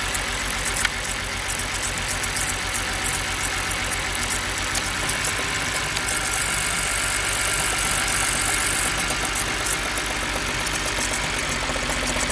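2006 BMW E90's straight-six engine idling roughly during a coil-by-coil misfire test, with the number-4 ignition coil unplugged so that cylinder goes dead. The rough idle comes from a failing ignition coil, which the owner traces to cylinder 2.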